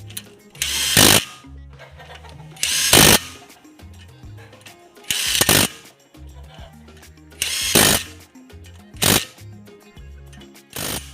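Background music with a steady bass line, cut by short, loud bursts of a power tool, such as a drill, about every two seconds.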